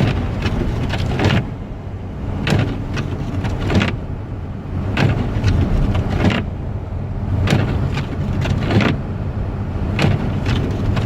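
Car driving through snow, heard inside the cabin: a steady low road rumble, with a short swishing stroke coming in pairs about every two and a half seconds.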